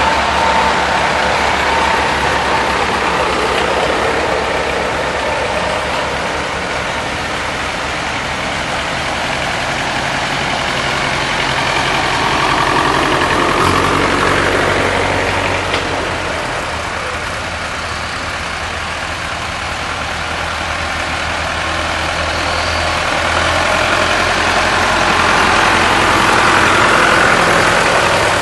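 Engines of vintage tractors running, a steady low chugging that slowly swells and fades as the machines go by.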